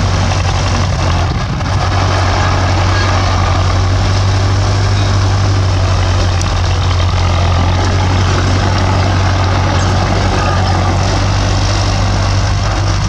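Bulldozer's diesel engine running steadily with a deep low hum, along with general machine noise.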